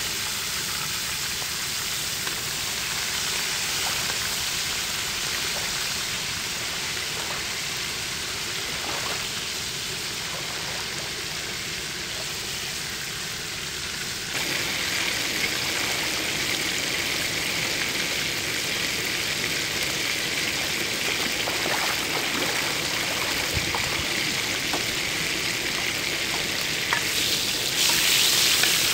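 Shrimp frying in hot oil in a pan on a portable gas stove: a steady sizzling hiss that gets louder about halfway through, with small spattering pops. A spatula stirs and turns them in the pan.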